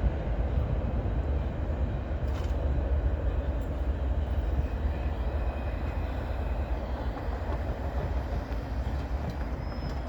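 Steady rumble of a double-stack intermodal freight train rolling away at speed, slowly fading, with a faint thin whine from the wheels partway through.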